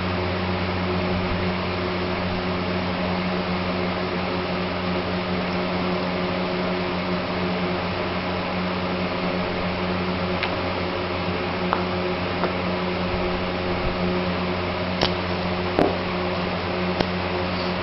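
A steady motor-like hum, such as a fan, running throughout. A few light clicks and taps come in the second half.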